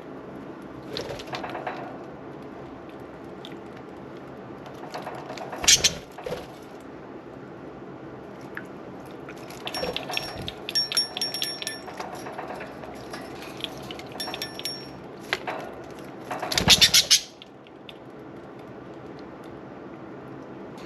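Budgies bathing in a running water fountain: bursts of splashing and wing fluttering, two of them loud, with scattered short chirps and clicks between them over the fountain's steady trickle.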